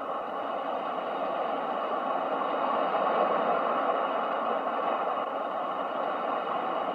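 Ocean waves: a steady rushing wash that swells gently to a peak about three seconds in and eases off again.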